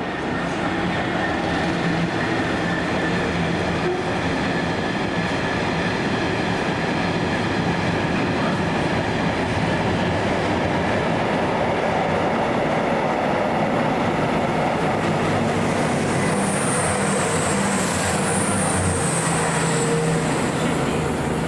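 Diesel train passing through the station: steady engine and wheel-on-rail noise, with a thin high squeal in the last few seconds.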